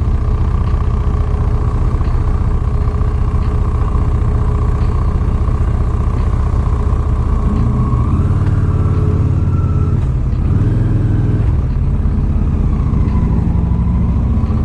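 Motorcycle riding along: a steady engine and road rumble, with the engine note shifting around eight seconds in and again near eleven seconds.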